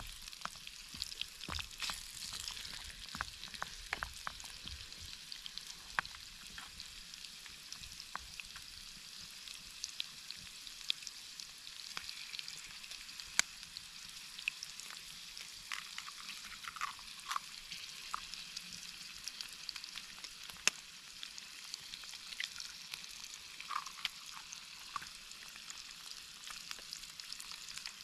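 Peppers and shallots frying in olive oil in a small pan over a campfire, stirred with a wooden spatula: a steady sizzle with frequent sharp crackling pops.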